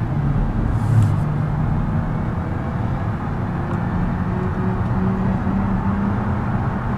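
Minivan engine running steadily, its pitch stepping up slightly in the second half.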